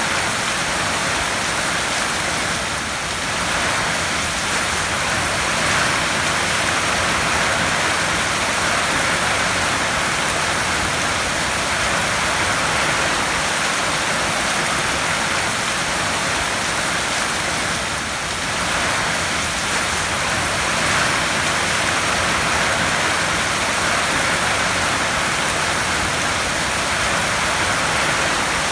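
Heavy rain falling on a tin roof: a dense, steady hiss of countless drops, strongest in the upper-middle range.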